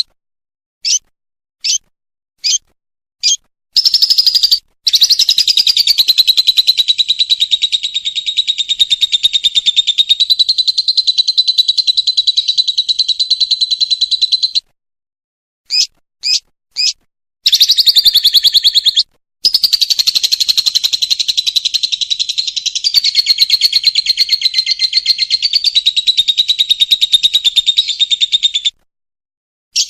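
Lovebird's 'ngekek' song: a few short high chirps, then a long, rapid, rattling trill of about ten seconds, a break with a few more short chirps, and a second long trill of about eleven seconds.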